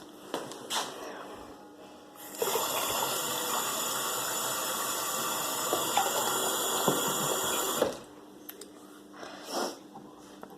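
A water tap turned on, running steadily for about five and a half seconds, then turned off abruptly.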